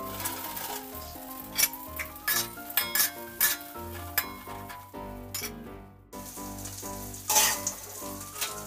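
Egg-coated tofu sizzling as it fries in oil in an aluminium wok, with a metal spatula clinking and scraping against the wok as the pieces are stirred and turned.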